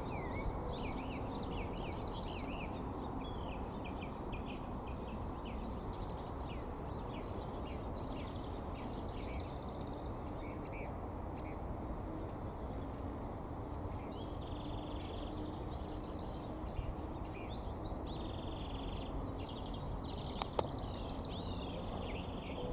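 Several small birds chirping and trilling in quick, repeated calls over a steady outdoor background hiss, with a faint low hum in the middle and two sharp clicks near the end.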